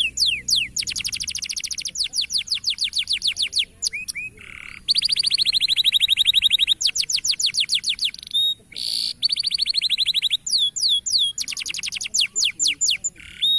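Domestic canary singing a long song of fast trills, each a rapid run of repeated downward-sweeping notes, switching to a new trill every second or two; the song cuts off abruptly at the end.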